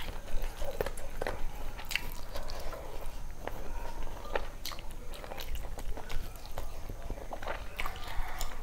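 Close-miked chewing and mouth sounds of a person eating rice and curry by hand, heard as irregular short clicks.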